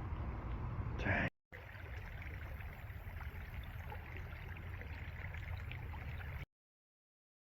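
Faint outdoor background noise with a low rumble and a few light clicks, cut by a short gap of silence just over a second in and stopping dead about six and a half seconds in.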